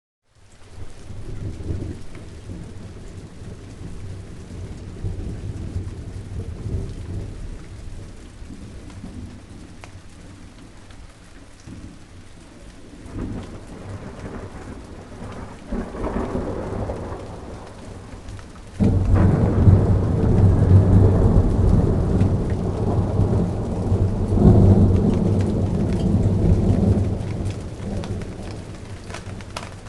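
Rain falling steadily in a thunderstorm, with thunder rumbling. A few softer rumbles come midway, then a loud roll of thunder comes on suddenly about two-thirds of the way through and dies away over several seconds.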